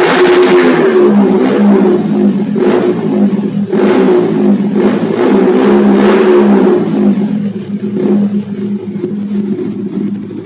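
Yamaha R15 VVA's single-cylinder engine running through a Tridente three-mode aftermarket exhaust set to racing mode, blipped several times over a steady idle. The engine settles back to a quieter idle for the last few seconds.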